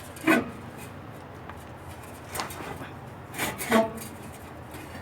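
Metal exhaust tip knocking and scraping against the exhaust pipe as it is forced on: four sharp knocks, one near the start, one in the middle and two close together past halfway. The tip is bent and will not slide onto the pipe.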